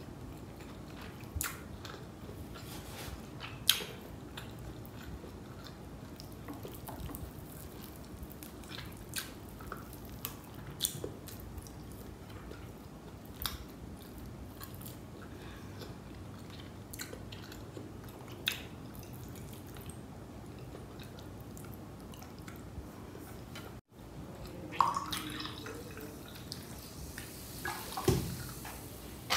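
A person chewing mouthfuls of biryani rice and chicken eaten by hand, heard close up, with wet mouth clicks and smacks. Now and then a sharper click or knock stands out, most of them near the end.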